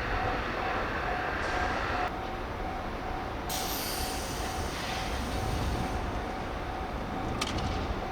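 Electric local train at a station platform: a steady squeal ends about two seconds in, then a burst of air hiss follows for about two and a half seconds, and a short sharp click comes near the end, over a pulsing beep that repeats throughout.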